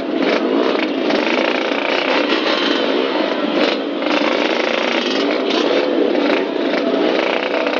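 An old vehicle engine running loud under way, its pitch rising and falling with the revs, mixed with heavy rushing noise.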